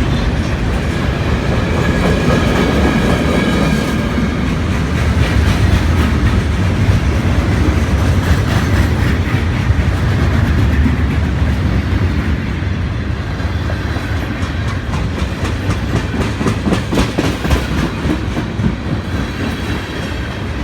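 Long freight train's cars rolling past at slow speed: a heavy steady rumble, with rapid clacking of wheels over rail joints coming in from about halfway through.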